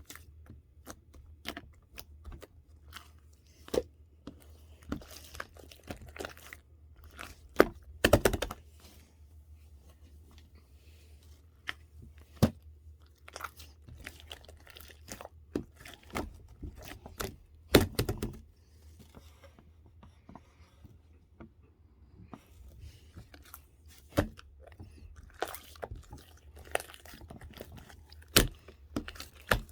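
Irregular crunching and clicking at close range, with a few louder cracks about eight and eighteen seconds in, over a steady low hum.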